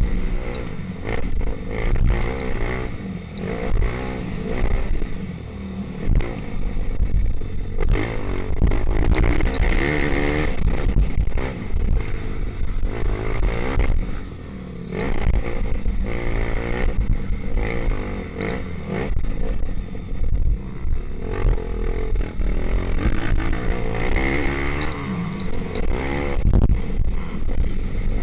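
Several pit bikes' small single-cylinder four-stroke engines revving hard, their pitch repeatedly rising and falling as the bikes accelerate, shift and brake around the track.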